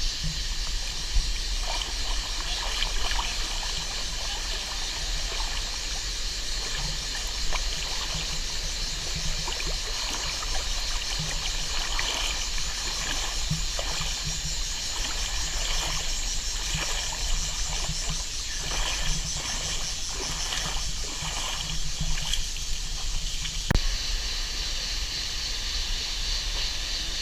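Running water of a low-flowing stream or waterfall, a steady rush with irregular trickles and small splashes.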